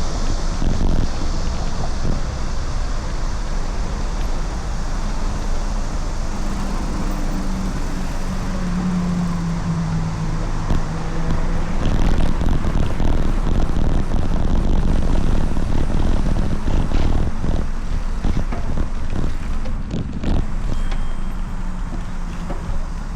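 Wind rushing over the microphone while riding, with steady road rumble; a low engine-like hum rises and falls in the middle, and a few knocks come near the end.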